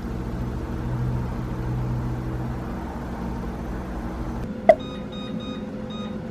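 Air fryer running with a steady fan hum. About four and a half seconds in the sound changes abruptly, then a single short electronic beep sounds, followed by faint repeated pips.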